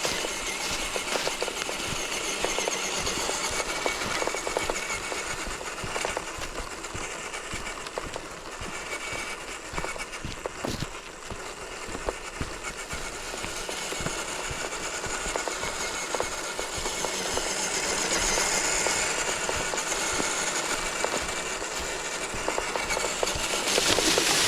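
RC4WD TF2 scale crawler truck driving over a woodland trail: electric motor and gear whine under a continuous rattle and clatter of the chassis and tyres over rough ground.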